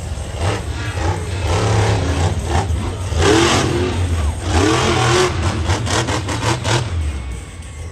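Monster truck engine running hard and revving in repeated surges, with a quick run of sharp cracks late on.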